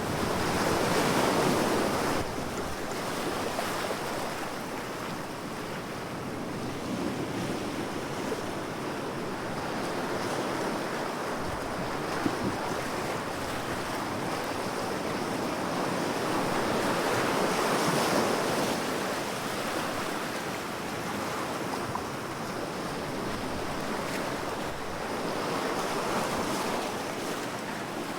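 Ocean waves breaking and washing on a shore, swelling and falling back in slow surges about every eight to ten seconds, with some wind noise on the microphone.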